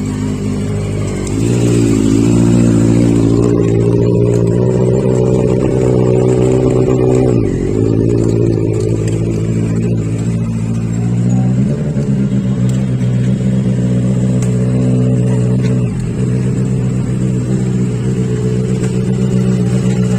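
Motorcycle engine revving, held at fairly steady high revs. The pitch dips and climbs back about four times as the throttle is eased and opened again.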